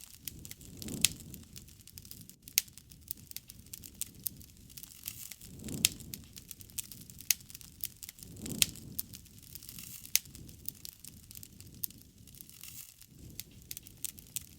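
Campfire crackling, with sharp irregular pops of uneven loudness and a soft low rush swelling every few seconds.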